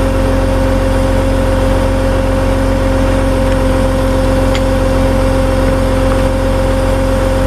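A vehicle engine running steadily at a constant speed, with an even hum and no change in pitch.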